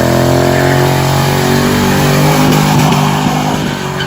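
Car engine held high in the revs under hard throttle as the car pulls away, struggling to put its power down. The engine note eases off near the end.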